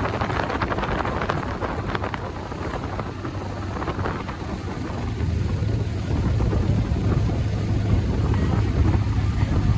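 Wind buffeting the microphone on a moving boat ride, with a low boat-engine rumble that grows louder about five seconds in.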